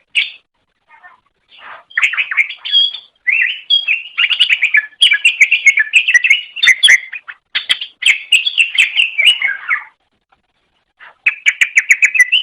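Greater green leafbird (cucak ijo) singing in loud, rapid, chattering phrases of quick chirps, with a short break near the start and another about ten seconds in.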